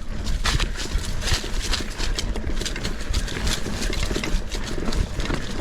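Irregular clicks and knocks of a Cradiac XC 900 mountain bike clattering over rough rocky trail ground.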